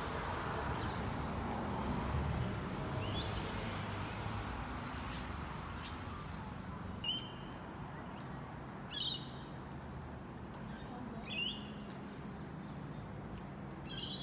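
Four short, sharp bird calls, about two seconds apart in the second half, over a steady low rumble that eases slightly after the first few seconds.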